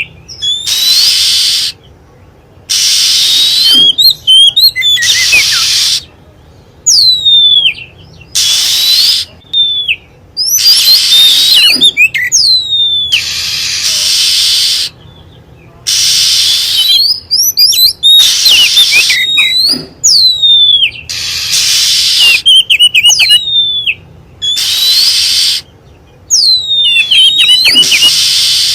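Oriental magpie-robin lure-call recording: high whistles that sweep down in pitch, alternating over and over with harsh hissing calls about a second long and short twittering trills.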